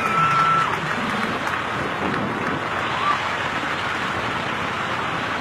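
Crowd applauding and cheering, with a couple of brief shouts or whistles near the start and about three seconds in.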